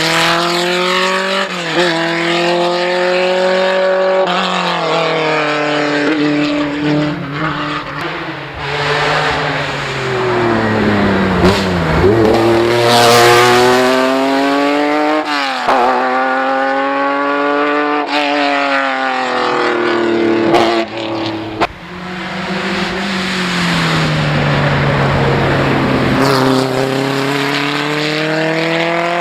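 Group B rally car engines revving hard under load, several cars in turn. Each engine note climbs through the revs, breaks at gear changes, and drops sharply in pitch as a car goes past.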